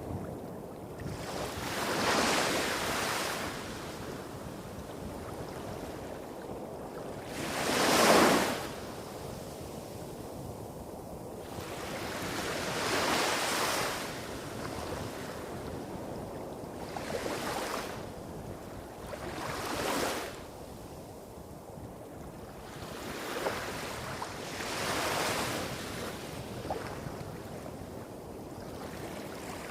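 Small waves breaking on a beach, each one a separate wash of surf about every two to five seconds, the loudest about eight seconds in, over a steady low rumble of waves hitting rocks a few hundred metres away.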